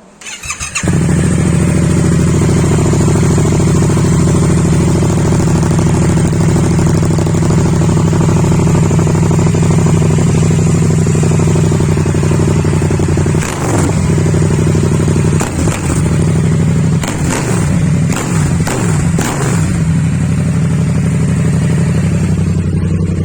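Yamaha MT-07's parallel-twin engine on an Akrapovič full-system exhaust with the catalytic converter removed. It starts up about half a second in and settles into a steady idle, then gets one throttle blip a little past halfway and a quick series of revs soon after, before dropping back to idle.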